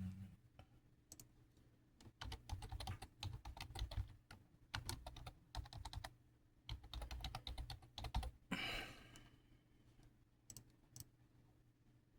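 Typing on a keyboard: two runs of rapid keystrokes, a short rustle about eight and a half seconds in, then a few single clicks.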